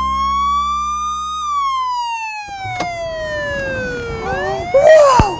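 Police car siren wailing: one slow rise in pitch, then a long slow fall, over a low engine hum that stops about halfway through. Near the end a louder burst of wavering tones joins in.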